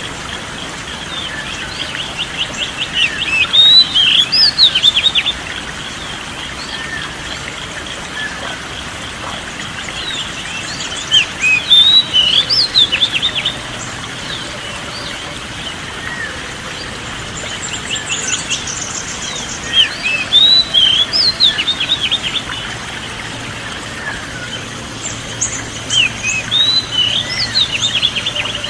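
A songbird singing in four repeated phrases about eight seconds apart. Each phrase is a quick rattle of notes followed by high rising and falling whistles, over a steady background hiss.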